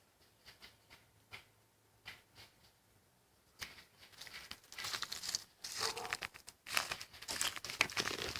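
A few faint clicks, then from about three and a half seconds in a dense, irregular crunching and crackling of dry leaves and twigs being trampled.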